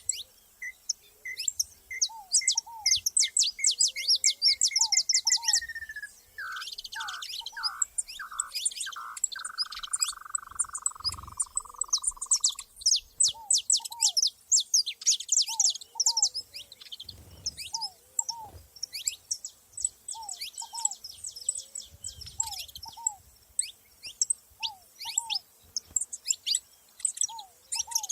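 Saffron finches singing in rapid, high chirping trills. A series of whistled notes speeds up and slides down into a long held whistle about six seconds in, and lower paired down-slurred whistles repeat throughout.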